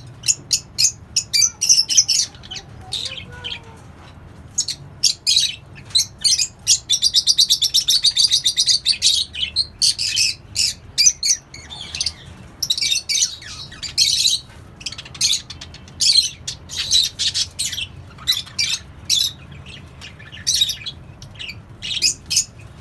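A colony of pet budgies, cockatiels and lovebirds chirping and squawking: many short, sharp calls one after another, with a fast chattering run of notes for a couple of seconds about a third of the way in.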